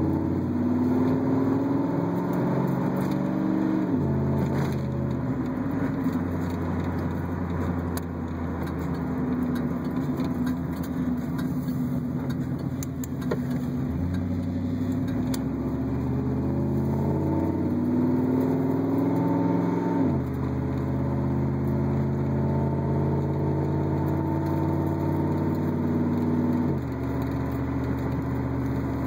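Chevrolet Camaro Z28's V8 engine pulling the car through the gears, not yet warmed up: the revs climb and then drop suddenly at each gear change, four times.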